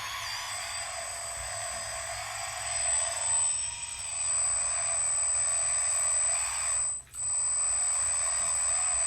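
Small electric motors and gears of radio-controlled construction vehicles whining, the pitch wavering as they speed up and slow down, over a steady thin high whistle. The sound drops out for a moment about seven seconds in.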